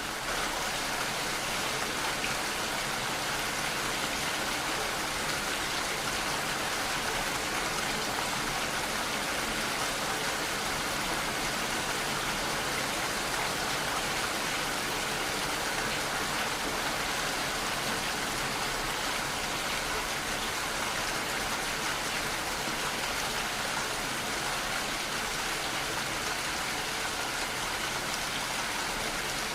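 Steady rainfall, an even hiss of drops with no breaks or changes.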